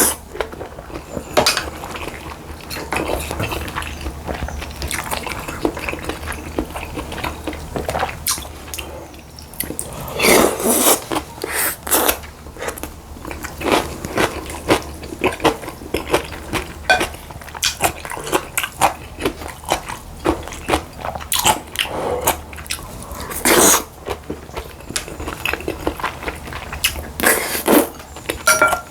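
A person eating close to the microphone: irregular chewing and crunching, with utensils clicking against the dishes now and then.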